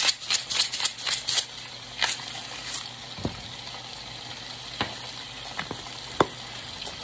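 Tofu sizzling steadily in a hot wok, with a hand grinder twisted over it in a quick run of gritty clicks for the first second or so, then a few scattered knocks.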